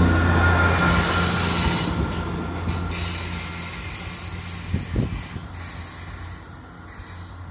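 GWR passenger train pulling away along the curved platform: a low engine hum fades as the last carriage passes, with high-pitched wheel squeal from the curve that dies away over the next few seconds.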